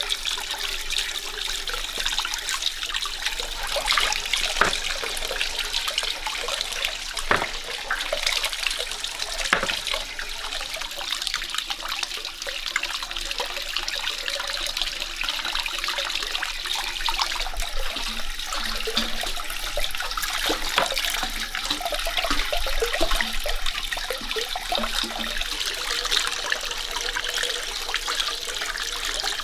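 Water running and splashing steadily, with a few light knocks in the first ten seconds.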